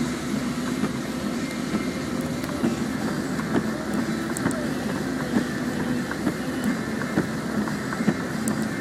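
A vehicle travelling on an expressway in heavy rain: a steady, unbroken rumble of road and rain noise.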